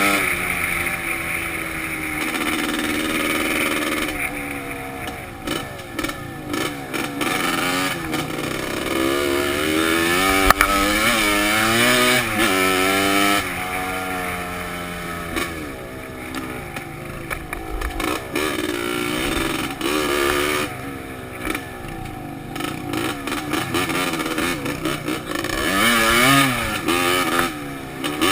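Dirt bike engine heard from a helmet-mounted camera, revving up and falling back over and over as the throttle is opened and closed. In several stretches the throttle is blipped in quick short bursts.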